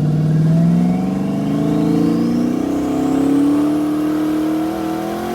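Twin-turbo LS V8 in a Camaro pulling hard under full throttle from a roll, its engine note climbing steadily in pitch, with a thin high turbo whine rising along with it.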